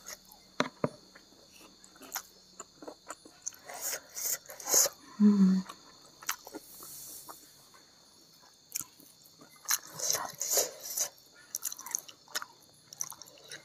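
Close-miked chewing with wet mouth clicks and lip smacks from a person eating rice and fried corn fritter with her hand. About five seconds in comes a short hummed "mm", the loudest sound.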